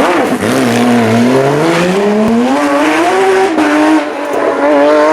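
Porsche GT3 rally car's flat-six engine accelerating hard, its pitch dipping briefly near the start, then climbing steadily, with short breaks for gear changes about three and a half and four seconds in.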